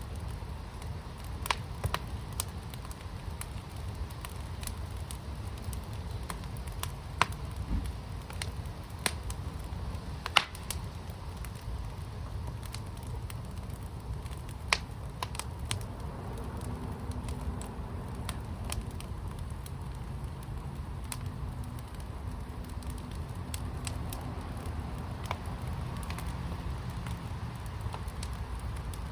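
Wood fire in a fire pit crackling, with scattered sharp pops over a steady low rumble. A faint low hum comes in about halfway through.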